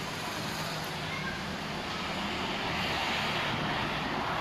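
Street traffic: a steady wash of motor-vehicle noise with a low engine hum.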